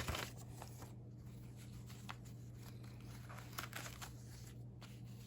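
Faint rustling and crinkling of newsprint pages as a recipe binder's clippings are handled and turned, with a louder rustle right at the start and a few soft paper sounds later.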